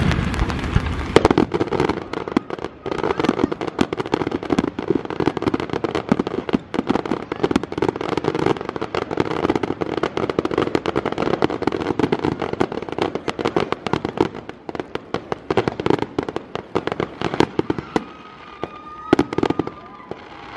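Fireworks display: dense, rapid crackling and popping with many sharp bangs, thinning out over the last few seconds.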